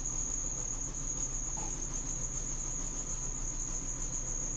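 Crickets trilling in a steady high-pitched drone over a low, steady rumble. The rumble comes from a Midea HealthGuard washing machine spinning with an unbalanced load.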